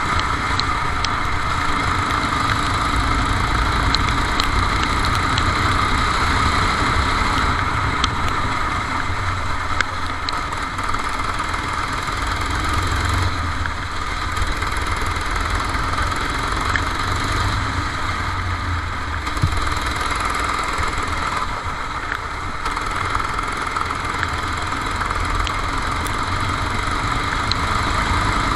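Kart engine running steadily on track, heard from onboard over a low rumble, easing off briefly a few times.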